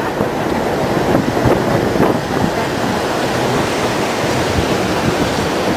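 Steady noise of a passenger railroad car rolling along the track, with wind on the microphone and a few faint knocks.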